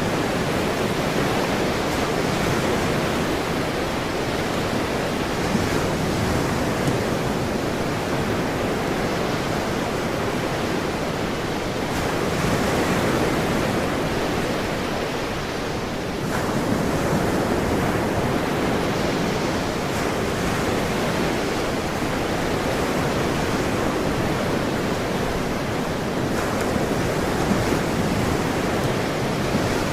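Ocean surf: a continuous rush of waves breaking and washing in, which eases briefly about halfway through and then builds again.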